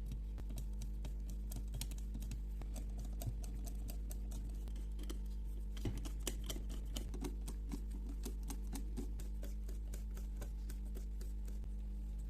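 Many small, irregular clicks and light taps of small hard parts being handled, thickest about six seconds in, over a steady low electrical hum.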